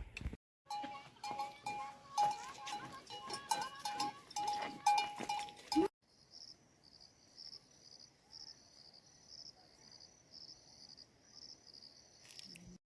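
A livestock bell clanking irregularly, with a ringing tone and sharp strikes, for about five seconds. After an abrupt cut, a quieter steady series of high chirps repeats evenly.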